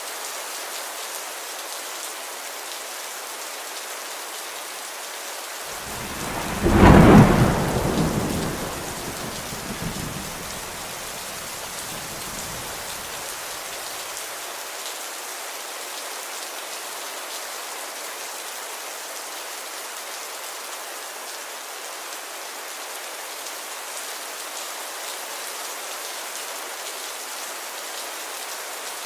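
Steady rain falling, with one clap of thunder about six seconds in that rumbles away over the next several seconds.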